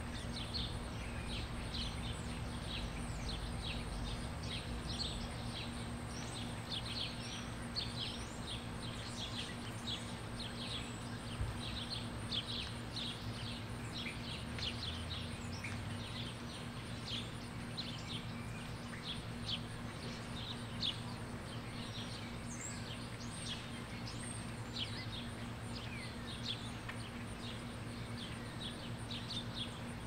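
Small birds chirping: many short, high, downward chips in quick succession, over a steady low hum.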